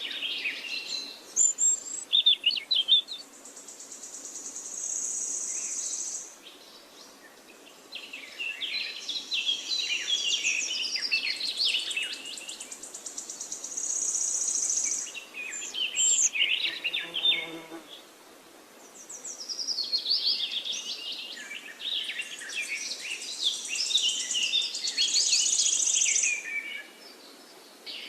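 Songbirds singing and chirping in long, dense bursts with short lulls between them. A high, steady buzzing trill recurs within several of the bursts.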